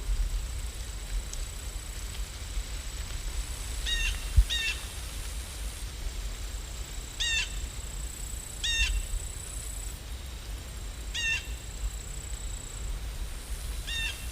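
A bird calling: six short, clear calls, two close together about four seconds in, then single calls every couple of seconds, over a steady low rumble.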